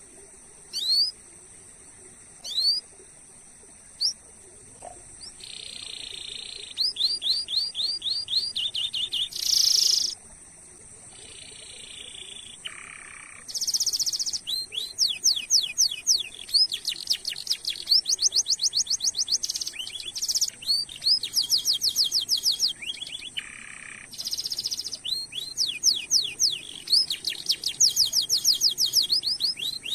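Domestic canary singing: a few single falling chirps about a second apart, then from about five seconds in a long song of rapid trills of repeated falling notes alternating with buzzy rolls. A steady high-pitched whine sits underneath.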